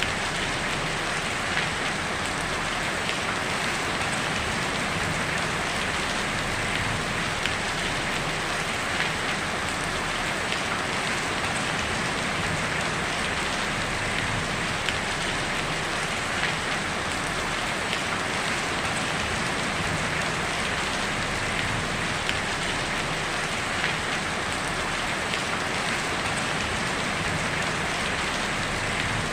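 Heavy rain falling steadily on a tin roof: an even hiss with scattered small drop ticks.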